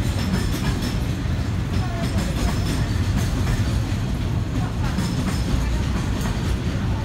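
Container freight train's wagons rolling past on the rails: a steady low rumble of steel wheels on track.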